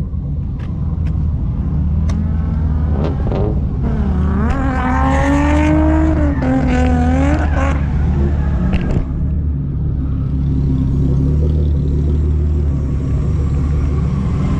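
Car engine idling with a steady low hum, while between about four and seven and a half seconds in an engine revs up and down. A few short sharp clicks are scattered through.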